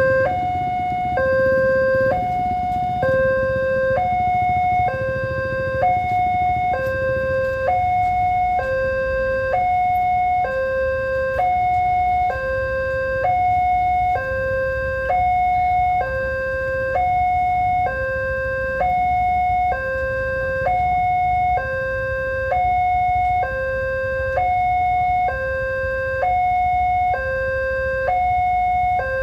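Railway level-crossing warning alarm sounding a two-tone electronic signal: a lower and a higher note alternating evenly, each held about a second, over and over, warning of an approaching train. A low rumble runs underneath.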